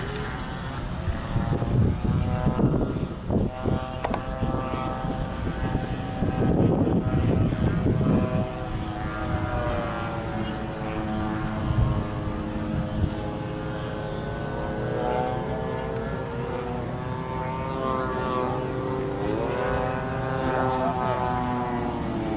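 Electric RC model airplane's motor and propeller whining in flight, the pitch slowly rising and falling as the plane climbs out and passes by. Wind rumbles on the microphone in the first several seconds.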